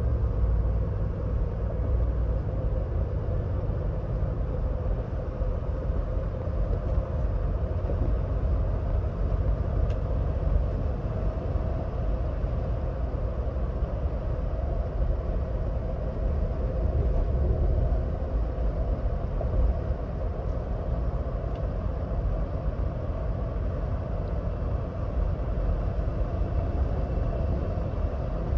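Ford Bronco Badlands driving at highway speed: a steady low rumble of tyre, wind and engine noise with a faint hum.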